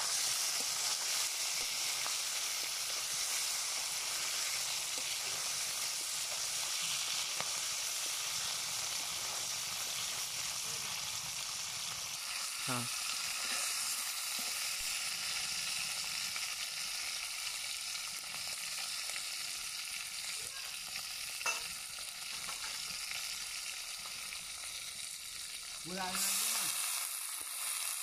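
Fish pieces sizzling in hot oil in a metal wok, stirred with a metal spatula that scrapes and knocks against the pan now and then. The sizzling swells briefly near the end.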